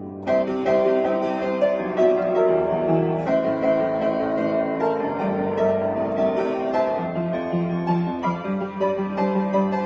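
Piano playing a busy passage of quick notes over a bass line. A loud new phrase begins just after the start.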